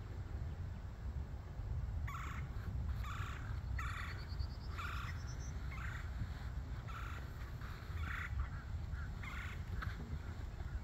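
A bird calling over and over in short calls, roughly one a second, starting about two seconds in and stopping near the end, with a quick rising run of high ticks about four seconds in, over a steady low rumble.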